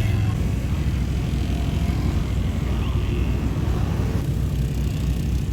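A vehicle engine running with a steady low rumble and a rushing noise over it.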